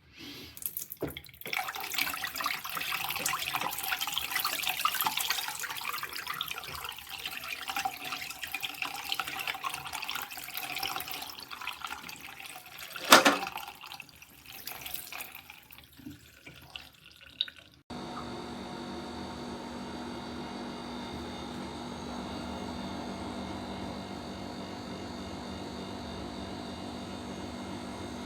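Water running and splashing into a sink, with a sharp knock about two-thirds of the way through. It then changes abruptly to a steady hum with a low tone: the Pro Breeze 20 L dehumidifier running.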